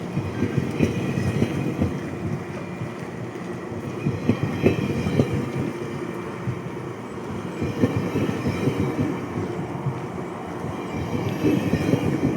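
GO Transit bilevel passenger coaches rolling past on a departing train: a steady rumble of wheels on rail with irregular clunks and a faint high wheel squeal.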